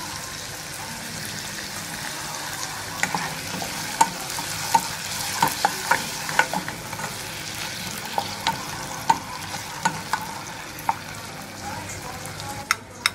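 Onions, garlic and tomato sauce sizzling in hot oil in a pot. From about three seconds in, a wooden spatula stirs them, knocking sharply against the pot every so often. Right at the end there are a few quick clinks.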